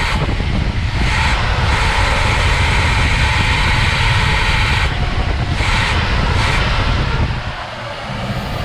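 Pontiac Grand Prix's carbureted engine running with a steady low rumble that eases a little about seven seconds in. The owner thinks he made a mistake in his carburetor rebuild: the engine won't stay running well and bogs when given gas.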